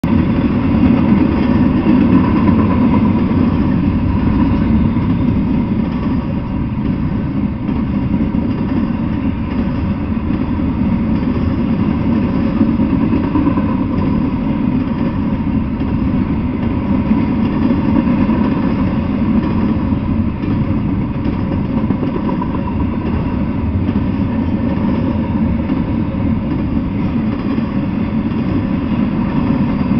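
Double-stack intermodal freight train rolling past, its steel wheels on the rails giving a steady, unbroken rumble with a faint steady whine above it.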